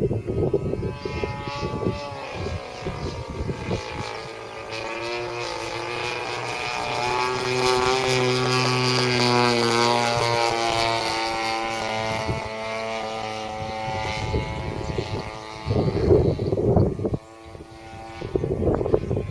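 Radio-controlled model airplane's engine and propeller droning steadily as it flies. The drone grows louder toward the middle, where the pitch rises and then falls as the plane passes. There are bursts of low rumble near the start and again near the end.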